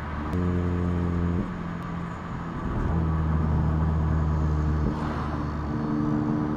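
2019 Volkswagen Jetta GLI's turbocharged 2.0-litre four-cylinder heard through a Neuspeed stainless cat-back exhaust at the tailpipe, droning at a steady pitch while cruising. The drone comes and goes three times, with a rougher rumble between.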